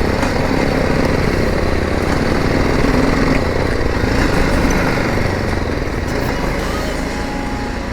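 Motorcycle engine running steadily while riding, mixed with a dense rushing noise.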